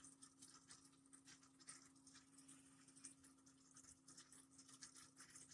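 Near silence: an electric pet water fountain running very quietly, a faint steady low pump hum with scattered faint ticks and patters.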